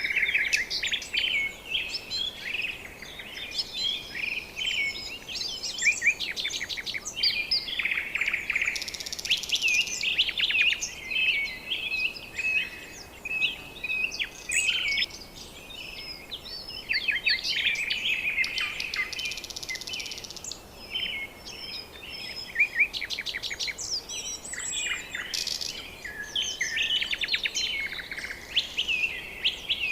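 A dense chorus of many birds chirping, with rapid trills and short high whistled notes overlapping one another.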